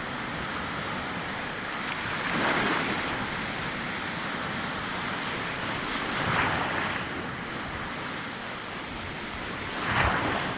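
Sea waves washing in over a steady surf hiss, with three waves rising and falling in loudness about four seconds apart, the last the loudest.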